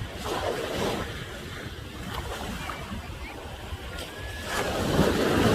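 Ocean waves breaking on the shore at high tide, a steady surf that swells louder near the end as a bigger wave comes in.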